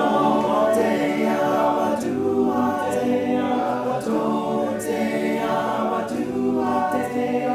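Choir singing a cappella: several voices hold chords in harmony, one sustained note after another.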